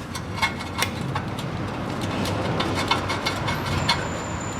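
Irregular metallic clicks and clinks of a 13 mm socket wrench undoing the nuts on a car's gear-shift lever mount, over a steady low background noise.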